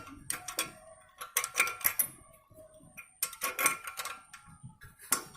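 Spanner loosening a 13 mm nut on a Royal Enfield 350's rear brake pedal adjuster: irregular light metallic clicks and taps in small clusters.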